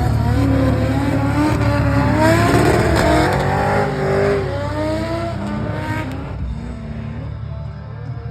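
Drift car engines revving hard, their pitch rising and falling over and over, dying away about six seconds in.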